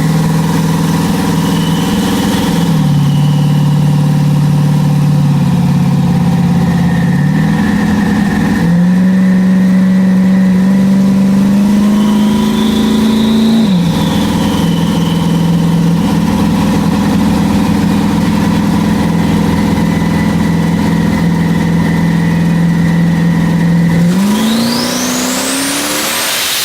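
Twin-turbo Camaro engine running on a chassis dyno. The engine holds steady speeds with a few sudden steps up and down in pitch. Near the end the engine speed rises and a high whistle climbs steeply.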